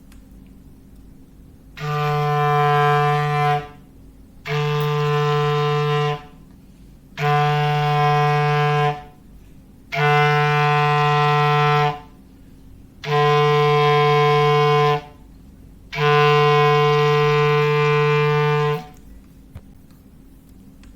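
Foghorn sound effect: six blasts of one steady low horn tone, each about two seconds long with a pause of about a second between them, the last a little longer.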